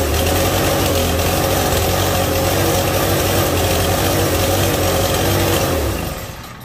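Briggs & Stratton 5.5 hp single-cylinder engine running flat out with no oil and its governor pinned wide open, then dying and winding down near the end, which the owner puts down to the kill switch arcing.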